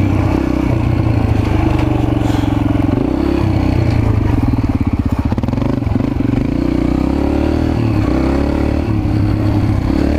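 Mini bike's small engine running under throttle as it is ridden, its pitch dipping and rising a few times, with a fast fluttering stretch in the middle.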